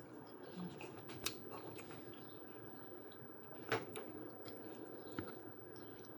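A person chewing food, with a few short sharp crunches, the loudest about two-thirds of the way through.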